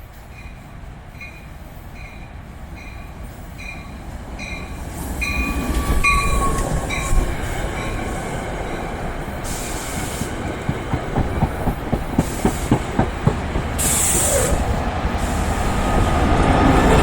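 NJ Transit train coming into the station: a bell rings about twice a second for the first several seconds, then the train grows louder and its wheels clack rapidly over the rail joints, with a short hiss near the end.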